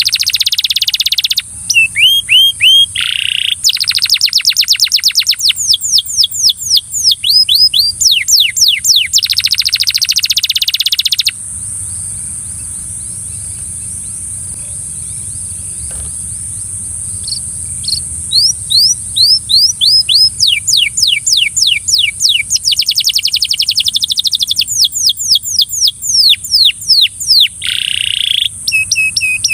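Belgian canary singing in long, rapid trills, each a run of quickly repeated falling notes, changing from one run to the next. The song breaks off for about six seconds near the middle, where only a steady high hiss is heard, then starts again.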